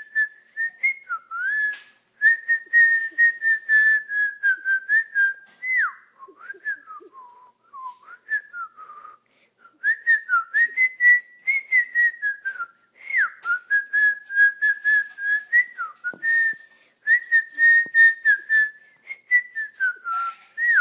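Cockatiel whistling a song: quick repeated notes at one high pitch, broken by short downward slides. There is a lower, softer stretch in the middle, then the quick notes resume.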